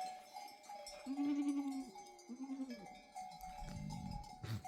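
Sheep bleating, two calls about a second in and a deeper one near the end, over the continuous ringing of flock bells.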